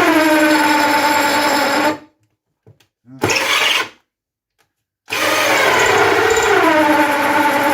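Cordless drill running in three bursts: a run that stops about two seconds in, a short blip, then a longer run from about five seconds. The motor's whine drops in pitch as it bogs under load, and its batteries are running down.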